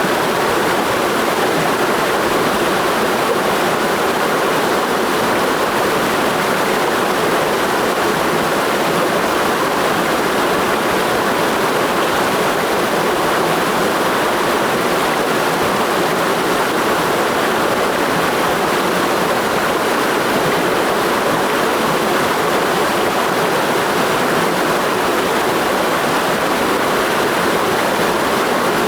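Mountain stream rushing over rocks, a steady loud rush of water that does not change.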